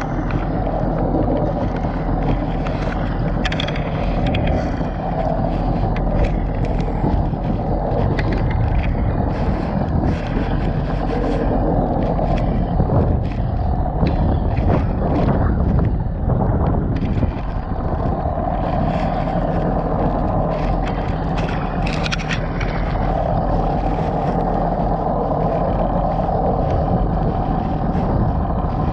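1999 Sea-Doo XPL personal watercraft's two-stroke engine running under way, with repeated short knocks throughout.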